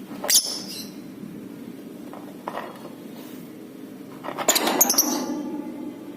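Lovebird calling in short, shrill chirps: one sharp chirp about a third of a second in, then a rapid cluster of chirps about four and a half seconds in. A steady low hum runs underneath.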